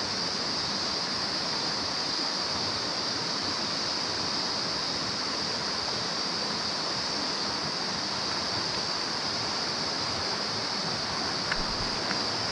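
Mountain stream running: a steady rush of flowing water with a bright, even hiss high in pitch over it.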